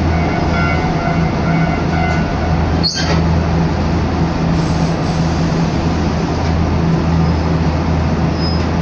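Inside a Choshi Electric Railway train car on the move: a steady low hum over an even running rumble, with a brief break about three seconds in.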